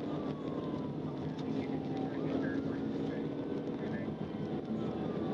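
Steady road, wind and engine noise of a police car driving at speed in a pursuit. A faint tone falls slowly in pitch twice over the noise.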